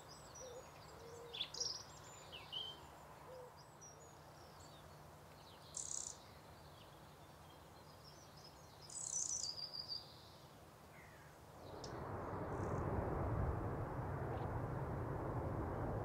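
Faint outdoor ambience with small birds giving short high chirps and calls scattered through it, and a few soft low notes near the start. At about twelve seconds a steady rushing background noise comes up and continues.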